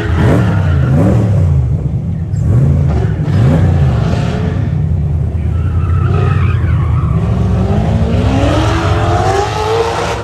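Autocross car being driven hard on the course: its engine revs up and drops back several times in quick succession, then climbs in one long rising rev near the end, with tyres squealing.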